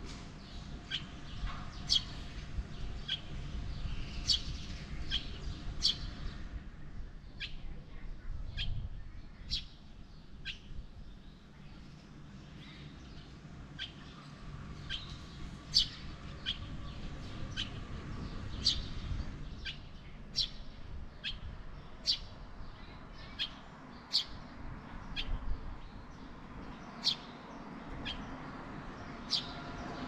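Bird chirping: short, sharp high chirps repeated about once or twice a second, over a low rumble.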